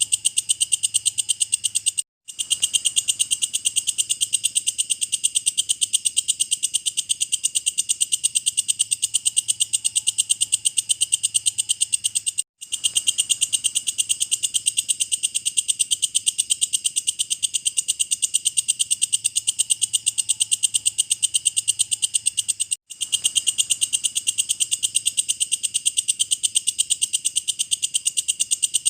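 Walang kecek (belalang kecek) grasshopper calling in a fast, steady train of high, clicking chirps, several a second. The call breaks off for an instant about every ten seconds.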